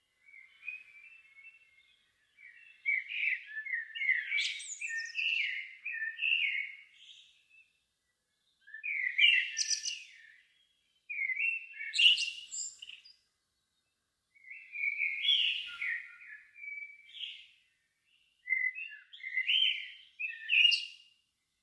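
A songbird singing in the evening: a series of varied warbling phrases, each a few seconds long and separated by short pauses, several ending in a high twitter.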